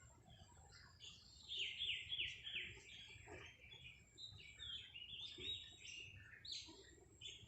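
A bird chirping in quick runs of short, high, falling notes, in two bursts of a second or two each, about a second and a half in and again near the middle.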